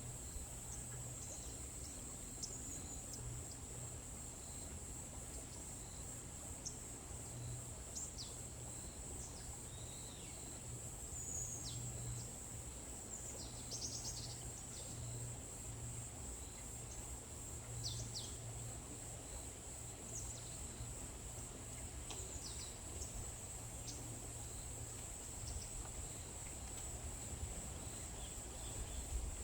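Forest ambience: a steady high-pitched insect trill, with short bird chirps and calls scattered throughout, over a low steady rumble.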